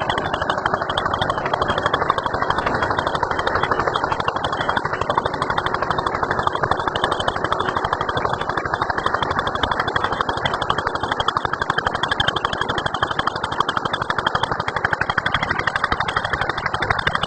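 Eicher tractor's diesel engine running steadily, with a fast, even pulse and no change in speed.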